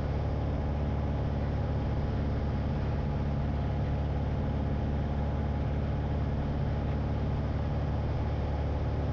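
Light airplane's piston engine and propeller droning steadily inside the cockpit at reduced landing power.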